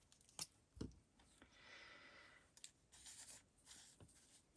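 Faint handling of paper and lace while gluing: a few small taps and clicks, and a soft rubbing scratch for about a second in the middle.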